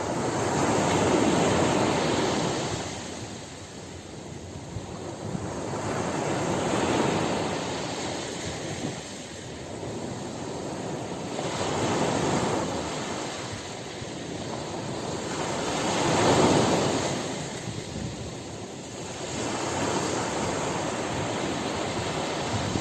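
Ocean surf: waves breaking and washing up the shore, swelling and fading about every five seconds.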